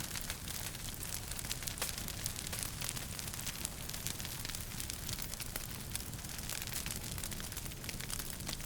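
Wood fire crackling in a fireplace: frequent irregular pops and snaps over a steady hiss and low rumble of the burning fire.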